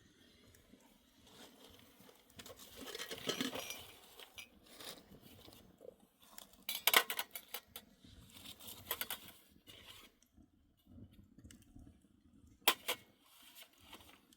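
Intermittent knocks, clatter and rustling, with a brief rustling swell about three seconds in and a sharp knock near the end.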